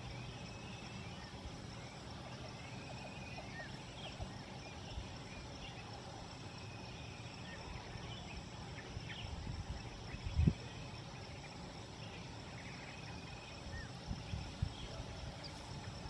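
Birds on a mountain slope chirping and calling in short, scattered calls over a steady low rush of wind. A brief low thump comes about ten seconds in.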